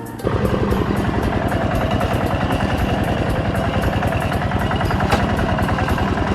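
Kubota M7040 tractor's diesel engine running steadily with a fast, even firing beat, cutting in suddenly just after the start.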